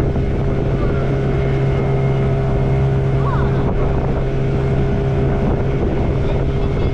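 Motorboat engine running steadily, a constant low drone, with wind on the microphone.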